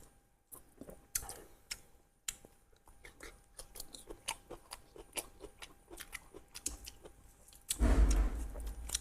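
Close-up chewing of spicy duck curry, with many short wet clicks and smacks. Near the end comes a loud, deep bump or rumble lasting about a second.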